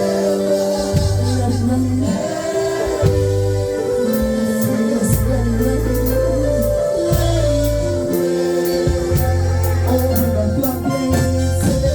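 Live gospel worship music: a choir singing over sustained bass notes that change every second or two, with tambourine or cymbal strokes coming in from about a third of the way in.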